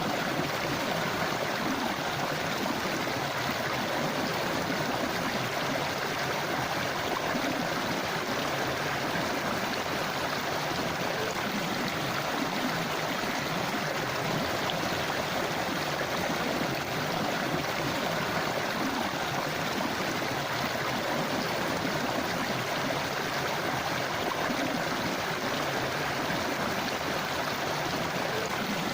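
A forest river or stream flowing, a steady rushing and gurgling of water over rocks.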